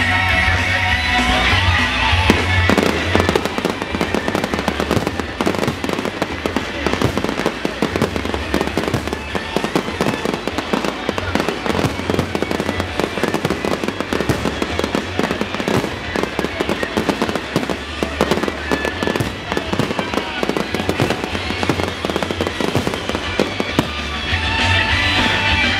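Fireworks going off in a dense, continuous run of bangs and crackles over background music, starting about two seconds in and easing off near the end.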